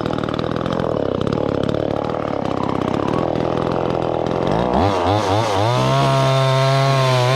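Two-stroke chainsaw running at low speed, then revved in a few rising and falling sweeps about two-thirds of the way in and held at high speed before dropping back at the end.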